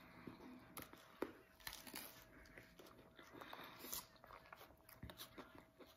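A person chewing a mouthful of burger close to the microphone: faint, scattered small mouth clicks. A faint steady hum runs underneath.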